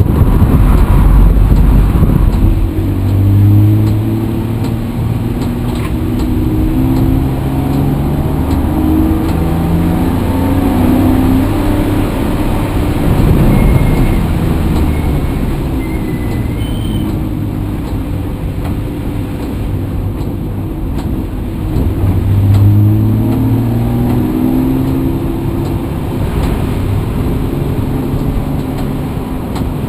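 Vehicle engine pulling hard, its pitch climbing and dropping back as it accelerates through the gears, over steady road noise.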